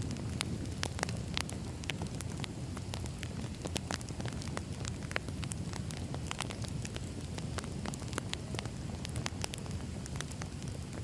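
Wood fire burning steadily: a low rumble of flames with frequent irregular crackles and pops from the burning logs.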